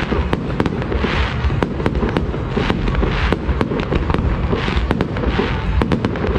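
Fireworks going off in rapid succession: many sharp cracks and bangs over a constant low rumble, with several hissing, crackling showers spreading out about a second each.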